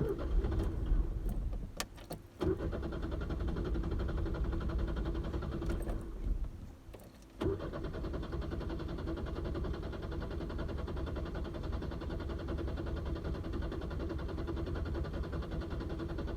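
1996 Chevy S10 pickup's engine turning over and running in three stretches. It cuts out briefly about two seconds in and again for about a second near the seven-second mark, then keeps going steadily. The truck is struggling to start and stay running.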